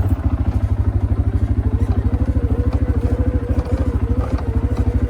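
Quad bike engine running at a steady low speed, a fast, even putter of firing pulses. A faint wavering whine rides over it from about a second and a half in.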